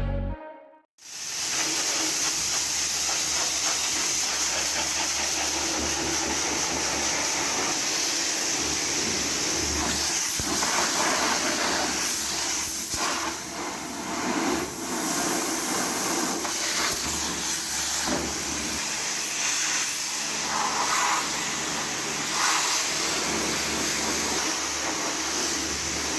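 Pressure washer spraying water onto a car's bodywork: a steady hiss that starts about a second in.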